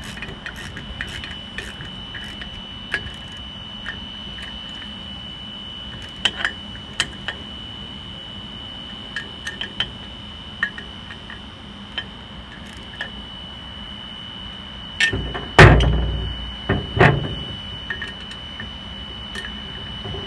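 Scattered metallic clicks and clinks of tools and engine parts being handled, with a few heavy knocks about 15 to 17 seconds in. Under them runs the steady high whine of a small electric power washer.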